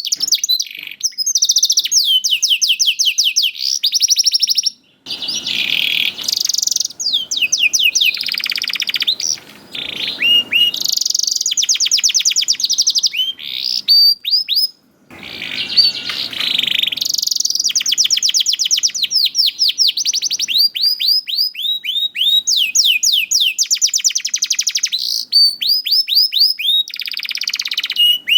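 Canary singing on and on in rapid trills of repeated, sweeping high notes, changing from one trill to the next every second or two, with short breaks at about five and fifteen seconds in.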